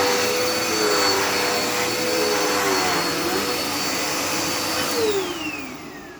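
Dirt Devil Endura Reach upright vacuum cleaner running with a steady motor whine. About five seconds in it is switched off, and the whine falls in pitch and fades as the motor winds down.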